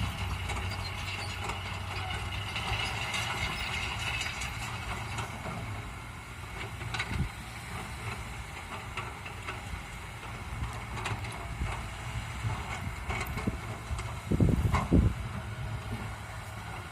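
Komatsu PC200 excavator's diesel engine running steadily, with scattered clicks and a couple of louder knocks near the end.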